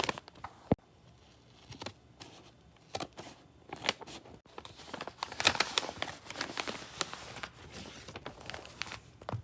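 Paper crinkling and rustling close up as a paper squishy is handled, with irregular crisp crackles that get busiest about halfway through.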